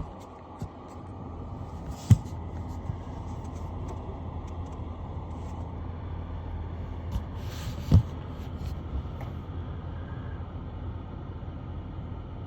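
Low, steady rumble of an idling vehicle engine, with two sharp knocks: one about two seconds in and a louder one about eight seconds in, just after a brief hiss.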